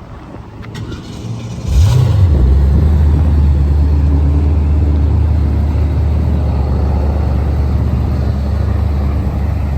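Twin-turbo LS3 V8 in a 1948 DeSoto firing up about two seconds in with a short flare of revs, then settling into a steady, loud, low idle.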